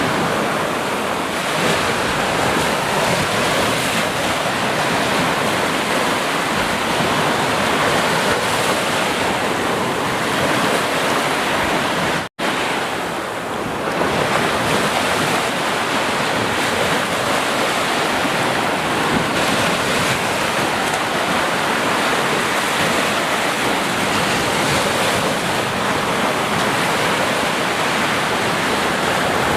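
Sea waves washing in a steady, continuous surf with no distinct breaks between waves. About twelve seconds in, the sound cuts out for a split second and then returns.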